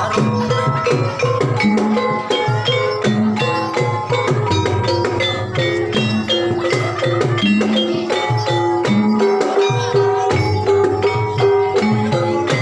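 Banyumasan ebeg horse-dance accompaniment: a gamelan-style ensemble of mallet-struck tuned percussion playing a fast, dense, repeating pattern over drums.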